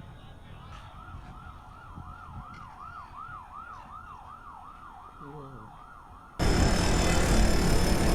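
Emergency vehicle siren in a fast up-and-down yelp, about three sweeps a second. About six seconds in it cuts off abruptly into a much louder, steady rushing noise.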